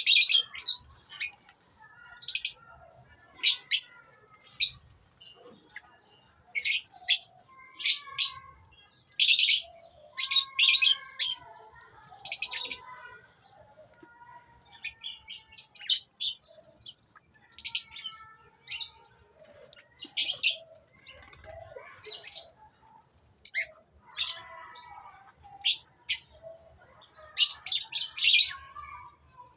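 Colony of lovebirds calling: many short, sharp, high-pitched chirps at irregular intervals, with softer chatter between them.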